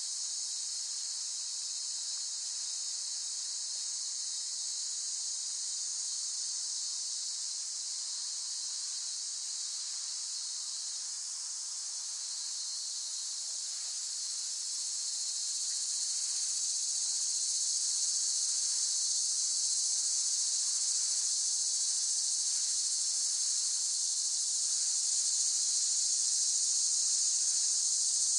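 Cicadas singing in a continuous, steady, high-pitched drone that swells a little louder about halfway through.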